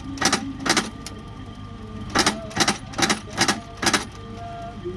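Regular short strokes of a hand tool working on a shoe, about two and a half a second: two near the start, a pause of about a second and a half, then five more.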